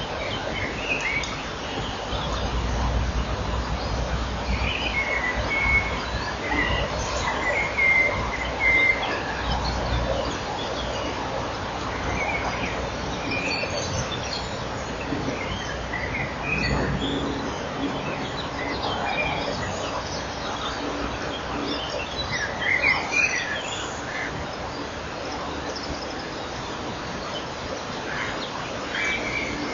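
Short bird chirps, several in quick runs about five to nine seconds in and again near twenty-three seconds, over a steady hiss with a low rumble in the first ten seconds.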